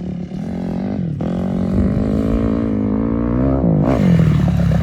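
Dirt bike engine revving under throttle, its pitch held fairly steady with a brief dip about a second in and another near the end as the throttle is eased and opened again, growing louder as the bike comes closer.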